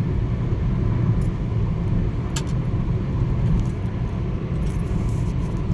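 Steady low rumble of a moving car heard from inside the cabin: engine and tyre noise while driving, with one light click about halfway through.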